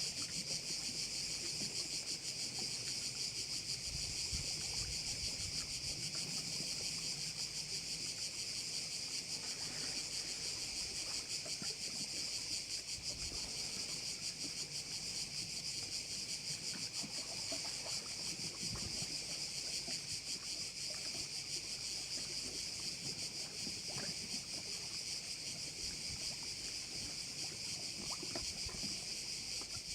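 A dense, steady chorus of crickets, high-pitched and unbroken, with faint low rumbles now and then underneath.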